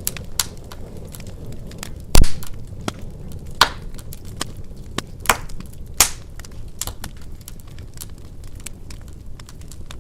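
Wood fire crackling in a fireplace: irregular sharp pops and snaps over a low steady rumble of flames, with the loudest pop about two seconds in.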